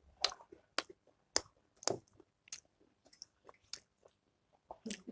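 Close-miked mouth sounds of someone chewing pork achar: irregular wet smacks and clicks, about one or two a second.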